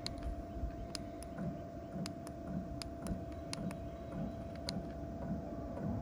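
Diesel air heater starting up: a steady whine from its running blower over a low rumble, with scattered sharp ticks at irregular intervals.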